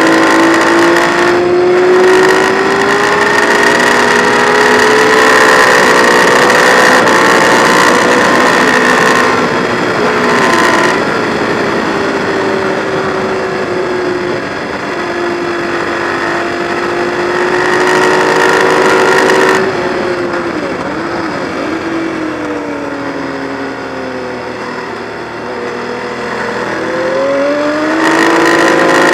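Ducati 1098's L-twin engine heard onboard under hard riding on a race track. The revs climb steadily over the first nine seconds, dip briefly near ten seconds, then hold high. At about twenty seconds the throttle closes and the revs fall with short wobbles as it slows, before the engine pulls and rises again near the end.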